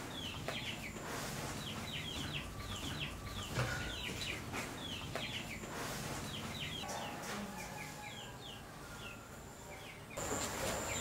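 Birds chirping outdoors: many short, quick falling chirps repeated in clusters. About ten seconds in, a steady high insect whine comes in.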